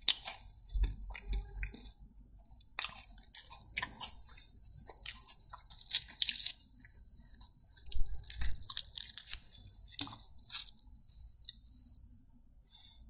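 A person chewing and biting crunchy food close to the microphone: irregular crisp crunches with wet mouth sounds between them.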